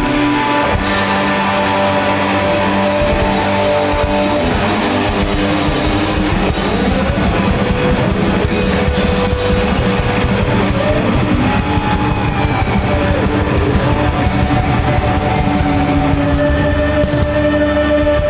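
Rock band playing live without vocals: electric guitars holding sustained notes over bass and busy drums.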